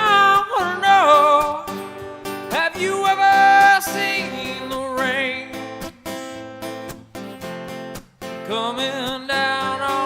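Acoustic guitar strummed in a steady rhythm, with long held sung notes that waver in pitch over the chords.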